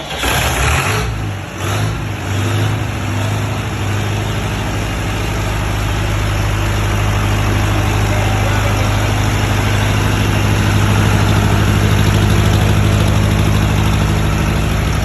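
Four-cylinder diesel engine of a silent-canopy generator set just after starting: uneven for the first couple of seconds, then settling into a steady, even run.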